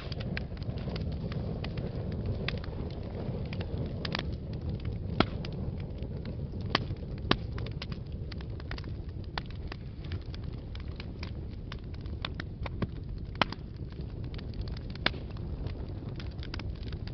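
Wood fire burning in a fireplace: a steady low rumble of flames with frequent irregular crackles and sharp pops, a few louder snaps scattered through.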